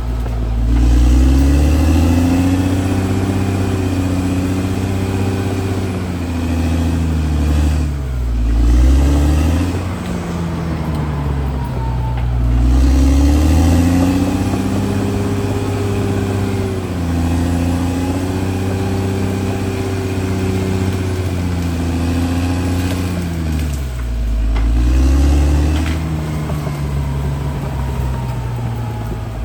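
CAT D6R XL bulldozer's diesel engine working under varying load, its engine speed rising and falling, with two deep drops and recoveries, about a third of the way in and again near the end.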